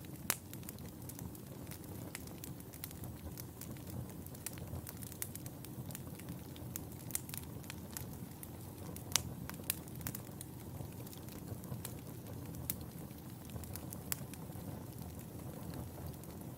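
Wood fire burning in a fireplace: a steady low rumble of flames with irregular sharp crackles and pops throughout, a few louder pops standing out.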